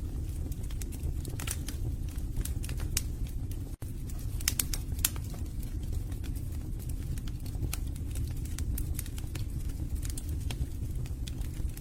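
Wood fire burning in a fireplace: irregular sharp crackles and pops from the logs over a steady low rumble of the flames. The sound cuts out for a split second about four seconds in.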